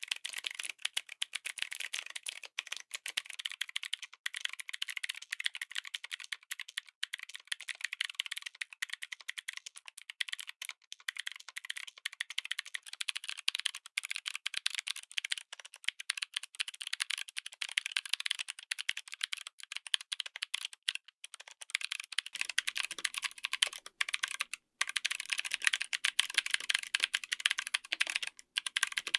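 Fast, continuous typing on a mechanical keyboard fitted with clicky switches: a dense run of sharp, high clicks with only brief pauses. About three-quarters of the way through, the keystrokes gain a little more low body.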